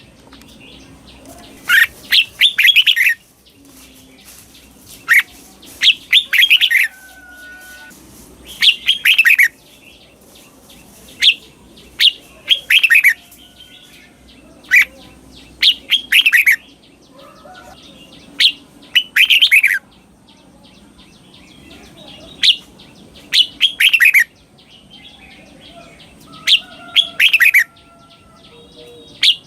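Red-whiskered bulbul singing: loud, short phrases of several quick notes, each falling in pitch, repeated every two to three seconds, with some phrases given twice in a row. Faint, lower bird calls sit between the phrases.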